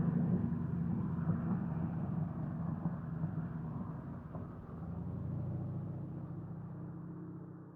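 North American AT-6 Texan single-prop plane's nine-cylinder radial engine droning as it flies away after passing overhead, fading with distance. There is a brief swell a little past halfway, and the sound cuts off just at the end.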